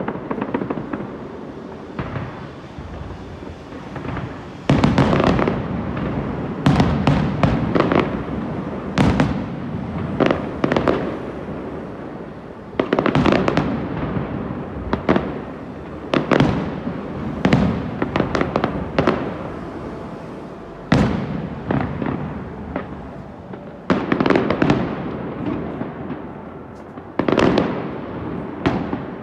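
Aerial fireworks going off in a continuous barrage: clusters of sharp bangs every second or two, with crackling and booms echoing, over a steady low rumble.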